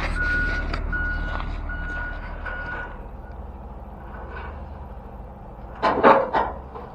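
A truck's reversing alarm beeping, a steady high beep about every 0.8 seconds over a diesel engine running, stopping about three seconds in. About six seconds in comes a short, loud burst of noise in a few quick strokes.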